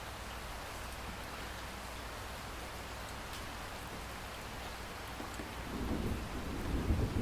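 Steady rain falling, with a deep thunder rumble building up in the last second or two.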